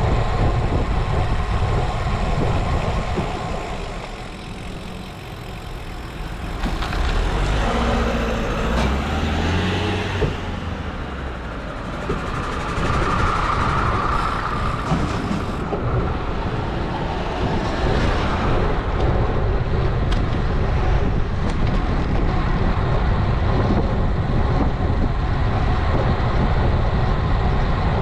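Wind rushing over a bike-mounted action camera's microphone while riding in traffic, with a motor vehicle's engine passing about a quarter of the way in.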